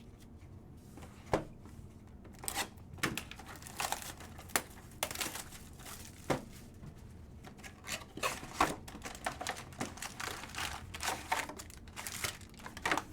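Foil trading card pack wrappers being torn open and crinkled by hand, in irregular crackles and rustles.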